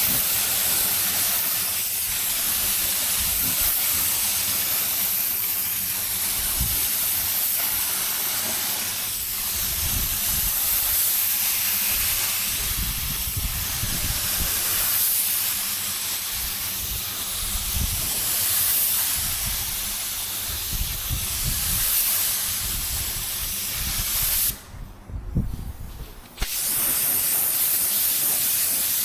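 Compressed-air paint spray gun hissing steadily as white paint is sprayed over primer spots; the spray stops briefly about 25 seconds in, then starts again.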